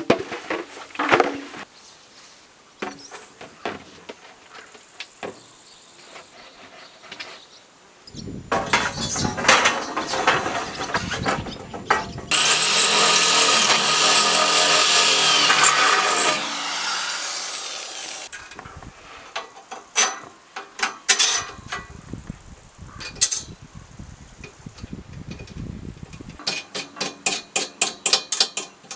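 Hand and power tools working thin metal framing profile: scattered clicks and knocks, a rasping sawing stretch about eight seconds in, then a power tool running steadily for about four seconds midway, and fast repeated clicking near the end.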